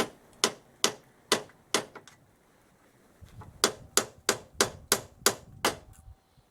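Hammer blows on metal: five strikes in the first two seconds, then after a pause a quicker run of seven strikes.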